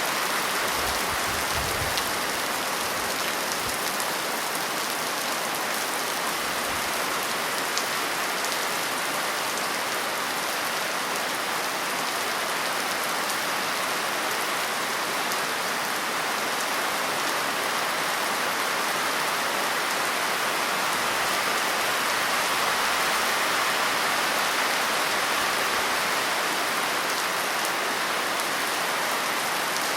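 Steady rain falling, a dense, even hiss of drops with no change in intensity.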